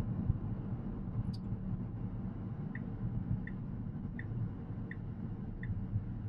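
Steady low road and tyre rumble inside the cabin of a Tesla Model X Plaid on the move, with a turn-signal indicator starting to tick about three seconds in, one click roughly every 0.7 s.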